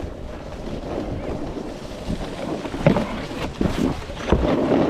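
Snowboard sliding and scraping over snow, with wind buffeting the microphone and a few short knocks in the second half.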